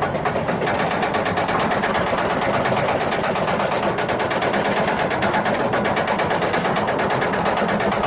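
A rapid, steady mechanical clatter of many clicks a second, running without a break.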